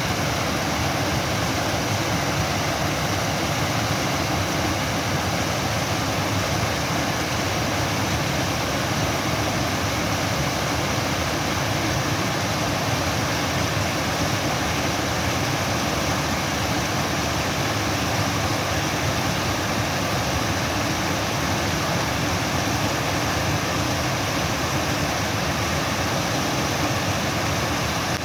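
Steady rushing water, an unbroken loud hiss and rumble with no changes.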